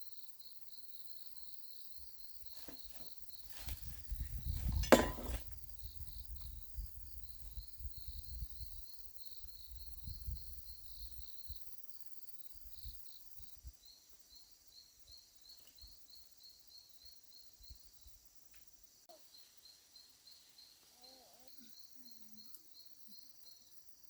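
Insects chirping in a steady, rapidly pulsing high trill, with low rumbling and scattered knocks through the first half and one sharp knock about five seconds in.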